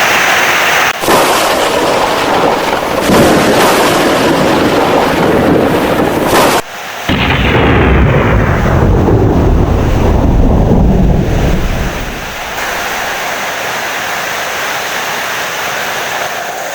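Heavy rain with thunder: a loud, deep rumble of thunder breaks in about seven seconds in and rolls off over several seconds, leaving a steady rain hiss. The sound changes abruptly twice, near the start and just before the rumble, where storm recordings are spliced together.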